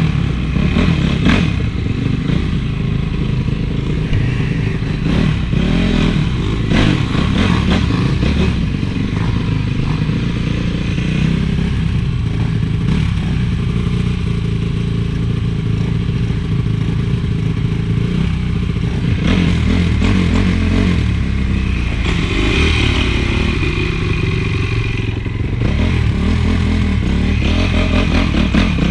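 Honda CRF450 single-cylinder four-stroke motocross engine running under riding, its revs rising and falling with the throttle, picked up close on the bike with clattering from the machine.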